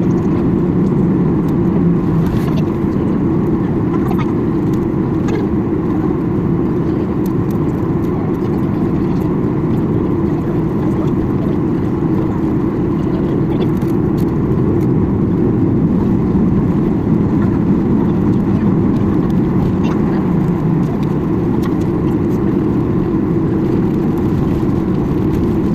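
Steady low rumble inside a Boeing 737-800 cabin: the CFM56 jet engines at idle and the cabin air-conditioning airflow, with a few faint clicks.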